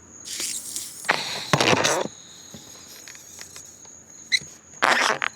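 A person blowing hard by mouth into a long twisting balloon: loud, breathy puffs of air, the strongest in the first two seconds and another near the end. A steady high insect trill, like crickets, runs behind.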